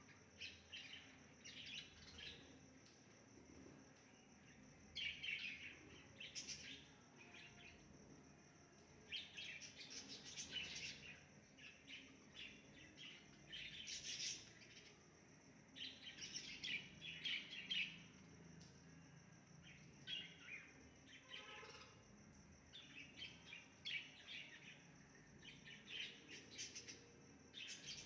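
Small birds chirping in short bursts every second or two, over a steady high-pitched insect drone.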